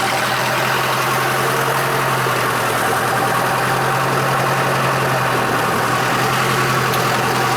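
Tractor diesel engine running steadily, with an even low hum throughout.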